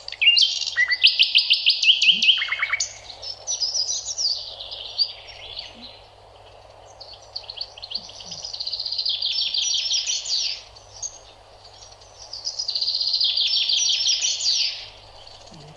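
Birdsong: four phrases of rapid, high trilling notes, each lasting two to three seconds, with short pauses between them, over a faint steady hum.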